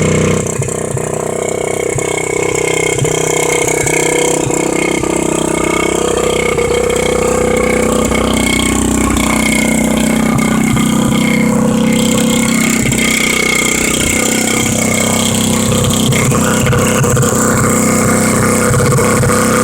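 125cc pit bike engine running steadily, its pitch dipping and rising a little partway through as the throttle changes.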